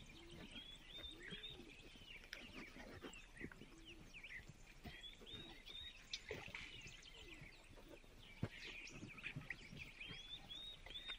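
Near silence with faint, repeated high chirps of small birds, and a few soft ticks and rustles, the sharpest about eight seconds in.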